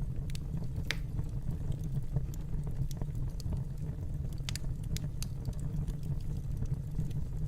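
Wood fire crackling: a steady low rumble of flames with scattered sharp pops and snaps, the loudest about a second in and a small cluster about four and a half seconds in.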